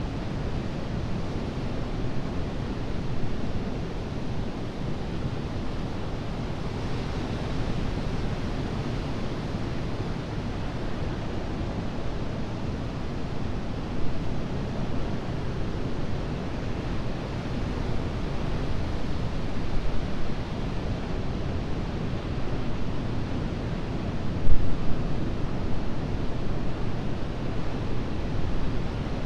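Atlantic surf breaking and washing up the shore in a continuous rush of noise, swelling with a brighter wash about seven seconds in.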